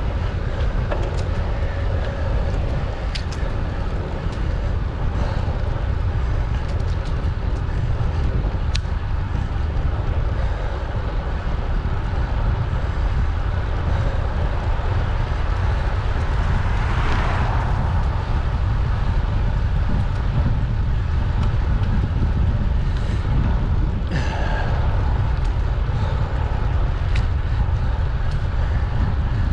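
Steady low rumble of wind on the microphone and road noise from a moving bicycle, with a few sharp ticks and a brief swell of hiss a little past halfway.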